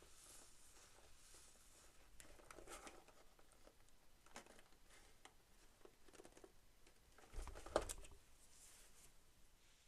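Faint handling sounds of toys and packaging: light rustling and scattered taps, with one louder knock a little under two seconds before the end.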